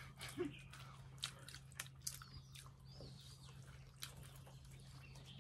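Faint mouth sounds of people chewing momo dumplings: scattered soft clicks and smacks over a low steady hum.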